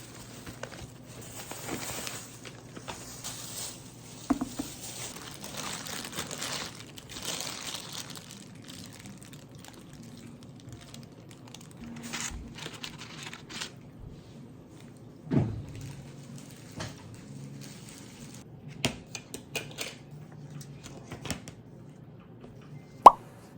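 Small handling sounds in a quiet small room: soft rustling for the first several seconds, a dull knock about two-thirds of the way in, scattered small clicks, and one sharp click near the end, the loudest sound.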